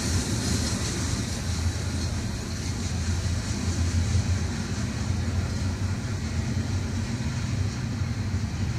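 Double-stack intermodal freight train's well cars rolling past on the track: a steady rumble of steel wheels on rail.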